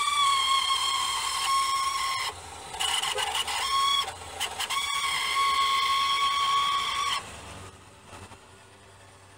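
1999 Mitsubishi Eclipse Spyder's power convertible top mechanism squealing from the driver's side as the top moves: a loud, steady high-pitched screech that breaks off twice and resumes, then stops, leaving a much quieter running sound for the last two seconds. The owner suspects a broken pin in the top's gear drive mechanism.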